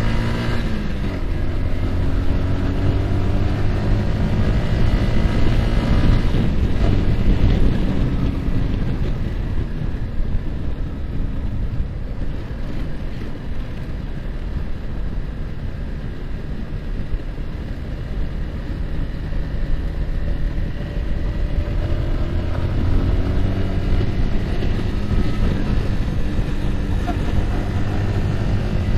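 Yamaha R15's single-cylinder engine running under way, mixed with heavy wind rush on the microphone. The engine note falls about a second in, wind noise covers the middle stretch, and the engine note comes back up and climbs slightly near the end.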